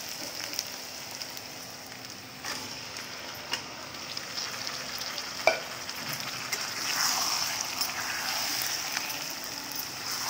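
Sliced onions sizzling in hot mustard oil in a pan, stirred with a metal spatula that knocks against the pan a few times, the loudest knock about halfway. After that, yogurt-marinated chicken goes into the hot oil and the sizzle grows louder.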